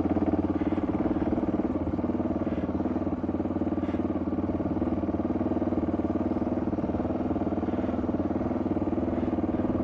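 Motorcycle engine running steadily at constant low revs, its even firing pulses unchanging in pitch.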